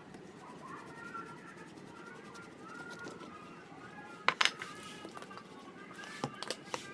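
A few sharp knocks, one about four seconds in and a quick cluster near the end, over a steady background hiss with faint bird calls.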